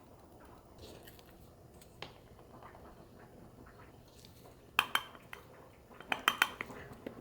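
Dishes and cutlery clinking against each other: a quiet stretch, then a couple of sharp ringing clinks about five seconds in and a quick run of clinks shortly after.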